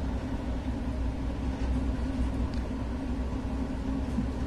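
Steady low rumble and hum of a passenger train coach, with a few faint ticks.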